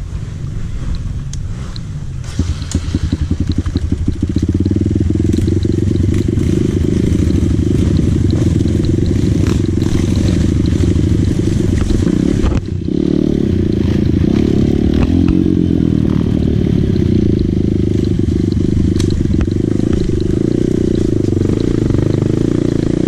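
Dirt bike engine running under way, steady, growing louder about four seconds in, with a brief drop about halfway through.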